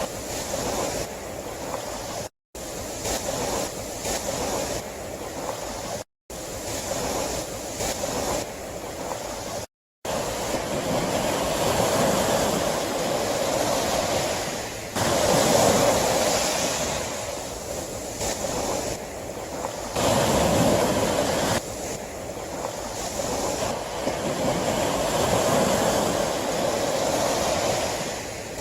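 Sea waves breaking and washing ashore, a continuous surf wash that swells and recedes, with heavier surges about halfway through. The sound cuts out to silence for a moment three times in the first ten seconds.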